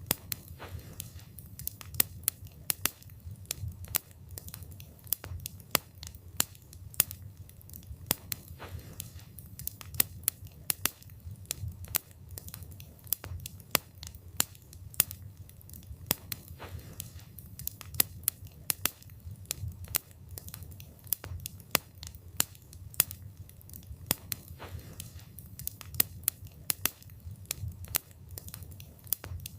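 Wood fire burning, with irregular sharp crackles and pops from the burning wood, several a second, over a steady low rumble of the flames.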